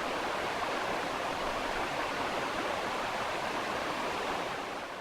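Steady rush of a flowing creek, a constant even roar of moving water that tapers off near the end.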